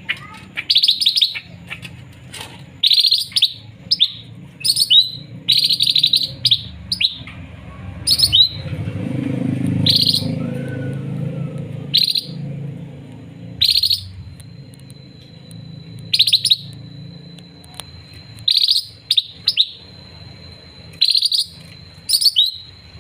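Cucak ranting songbird singing short, loud, chirpy phrases, one every second or two. A low rumble rises under the song midway, and a thin steady high tone sounds in the second half.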